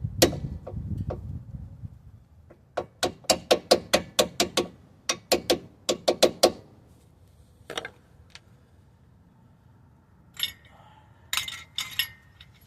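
Hand ratchet wrench clicking in quick runs of strokes as bolts are run in, followed near the end by a few light metal clinks of parts or tools.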